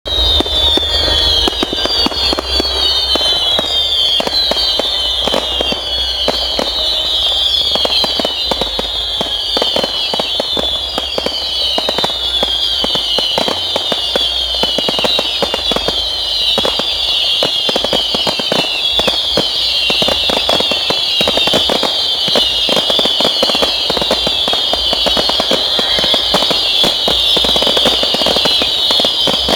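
Fireworks display: a dense, continuous run of bangs and crackles, with a high whistling tone that falls in pitch over and over.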